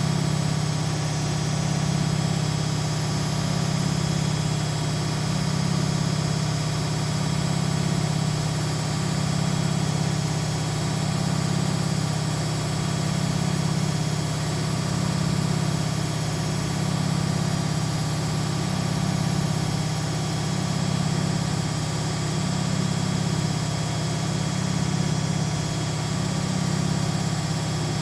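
Washing machine running: a steady low motor hum whose loudness swells and eases about every two seconds.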